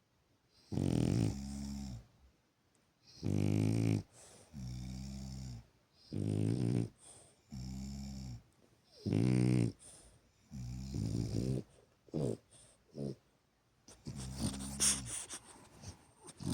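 A dog snoring while asleep: a loud pitched snore, then a softer, lower one, repeating about every two and a half seconds. Near the end the breathing turns rougher and noisier.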